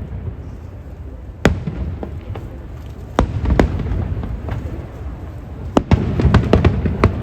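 Aerial fireworks bursting: sharp bangs at uneven intervals, about five in all, over a continuous low rumble of further shells.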